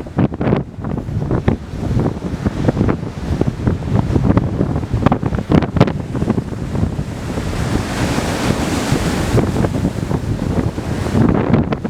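Strong wind buffeting the microphone in irregular gusts, over waves breaking and rushing on the shore in high surf.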